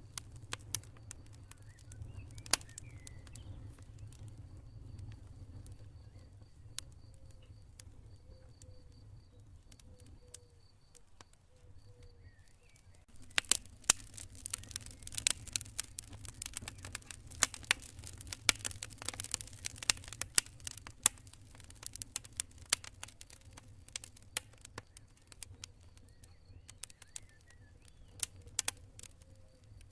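Campfire burning, with sparse crackles and pops over a low rumble. The crackling turns dense and busy a little before halfway and thins again near the end. A cricket chirps faintly in a steady pulsing train during the first part.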